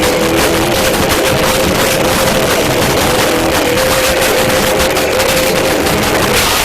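Live band playing loud, heavy music, recorded so overloaded and clipped that guitars and drums blur into a harsh wall of noise, with one held note running through most of it.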